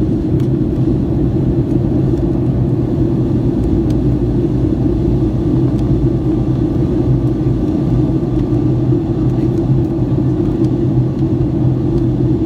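Steady drone of a Boeing 757-200's engines and airflow heard inside the passenger cabin in flight, a deep even rumble with a low hum.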